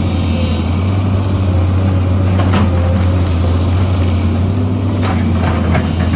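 Excavator's diesel engine running steadily under load, with a few short knocks about two and a half seconds in and again near the end.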